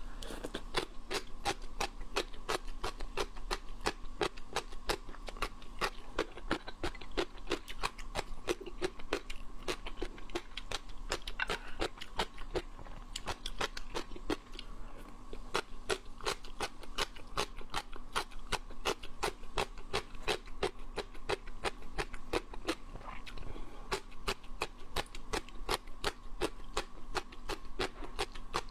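Close-up crunching of rehydrated gongcai (dried celtuce stem strips) being bitten and chewed: a steady run of crisp crunches, several a second.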